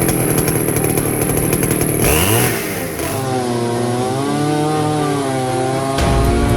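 Bison two-stroke chainsaw running, loud and steady, with its pitch sweeping up sharply about two seconds in, then wavering up and down as the engine speed changes.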